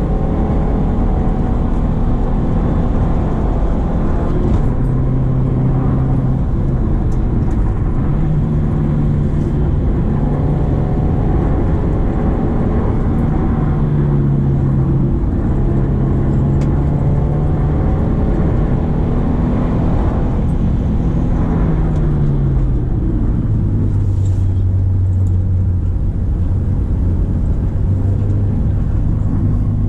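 Subaru Impreza XV's 2.0-litre boxer four-cylinder engine pulling uphill, its note rising and easing back several times with the throttle. About two-thirds of the way in the pitch falls and it settles into a lower, steady note.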